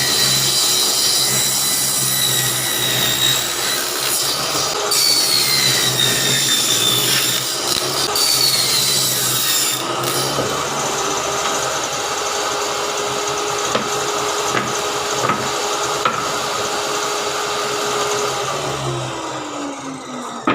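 Electric power tool running and working wood, a continuous rasping, grinding noise over a steady motor hum whose pitch dips as it bites into the wood. The motor winds down with a falling tone near the end.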